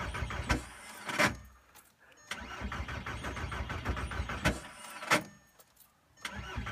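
Starter motor cranking the 2002 VW Golf's ALH 1.9 TDI diesel in a very cold start, in three bursts with short breaks between them, without the engine catching, a few sharp louder knocks among the cranking. Two glow plugs are dead, which makes the start hard.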